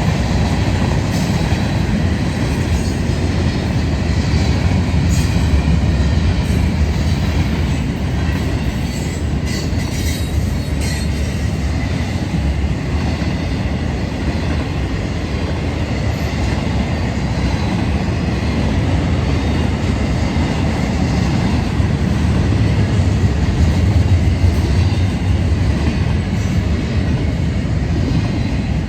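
A passing train: a steady heavy rumble of wheels on the rails, with a faint high wheel squeal.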